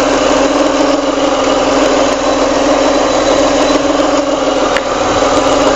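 Alfa Romeo 166 3.0 V6 engine idling steadily, carrying the weird noise from the cam belt (timing belt) area that the owner is trying to trace.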